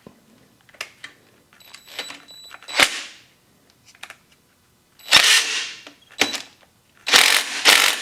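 Sharp metal clanks and knocks in a workshop: a handful of loud separate hits with short decaying tails, the loudest near the end, with smaller clicks between and a brief high metallic ring about two seconds in.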